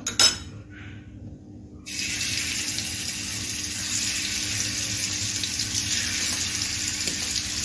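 Spice-marinated prawns sizzling in hot oil in a pan as they are laid in one by one. The steady hiss starts suddenly about two seconds in, after a brief clink at the start.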